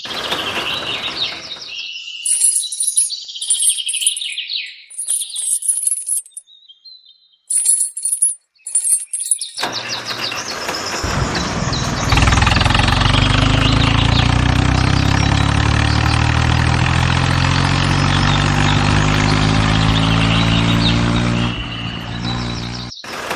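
A few seconds of high bird-like chirping, then a steady engine-like drone with a low, even hum that runs for about eleven seconds and breaks off near the end.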